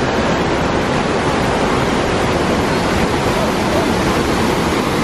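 Devil's Kettle waterfall on the Brule River, water pouring and splashing into its pool in a loud, steady rush.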